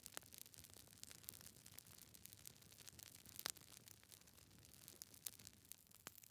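Faint wood fire crackling: irregular sharp snaps from burning logs, with one louder pop about three and a half seconds in.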